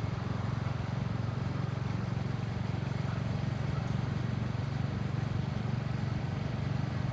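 Royal Enfield motorcycle engine running steadily with a low, even beat, with no revving, heard with road and wind noise.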